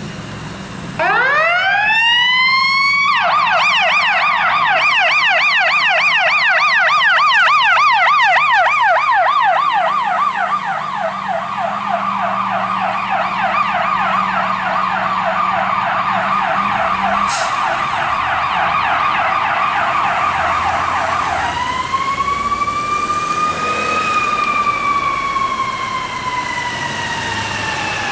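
Fire truck's electronic siren passing: it winds up about a second in, switches to a fast yelp for most of the time, then changes near the end to a slow wail that rises and falls. The truck's engine hums underneath.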